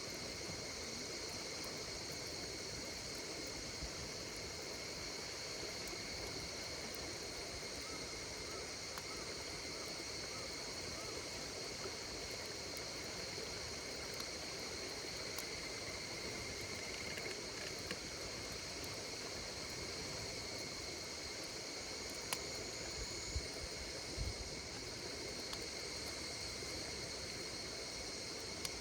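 Night insects trilling steadily in a high-pitched chorus over the soft hiss of a campfire, with a few sharp crackles from the burning wood near the end.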